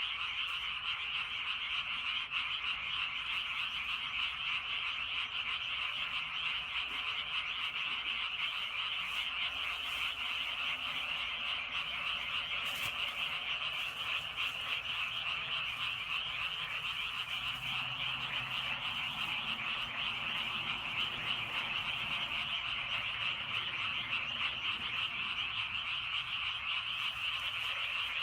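Dense chorus of many frogs calling at once from a flooded rice paddy, a steady, unbroken wall of fast, high croaks.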